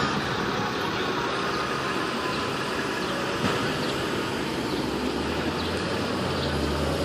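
Steady street traffic noise, with a heavy vehicle's low engine rumble coming in about five seconds in.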